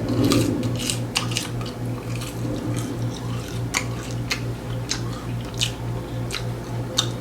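Close-miked eating: chewing and biting into food with short, crisp, wet clicks and smacks, irregular at about one or two a second, over a steady low hum.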